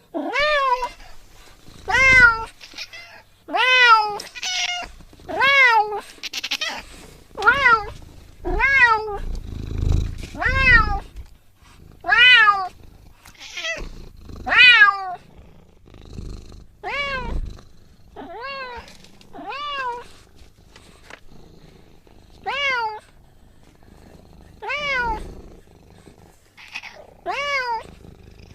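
Domestic cat meowing over and over, about one call every second or so, each meow rising then falling in pitch.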